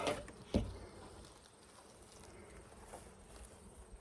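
Honeybees buzzing faintly around the beekeeper, stirred up by the hive being opened, which she takes for the hive being a little angry. Two sharp knocks or rustles come in the first second.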